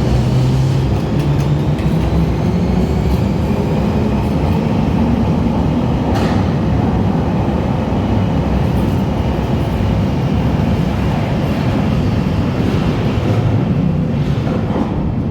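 London Underground Bakerloo line train (1972 Stock) running at the platform with a steady heavy rumble and a faint rising motor whine in the first few seconds. A single sharp click comes about six seconds in.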